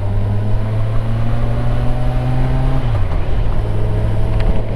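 Motorcycle engine running on the move, its pitch rising slowly and dipping briefly about three seconds in as the revs change.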